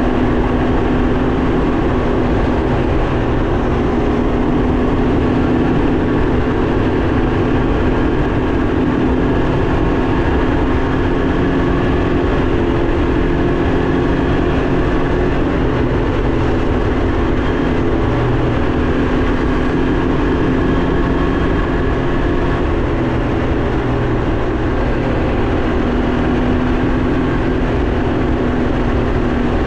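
Can-Am Ryker 900's three-cylinder engine running at a steady cruising speed, with wind and road noise.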